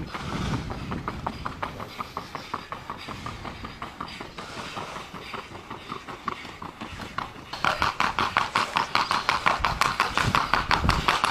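Hooves of a Colombian criollo horse striking the ground in a fast, even rhythm of about seven beats a second, as in the breed's four-beat gaits. The hoofbeats become much louder about two-thirds of the way in.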